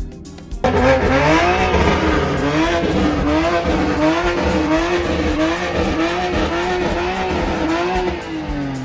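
A car engine revving up and down over and over, about twice a second, with tyre noise under it. It starts suddenly less than a second in.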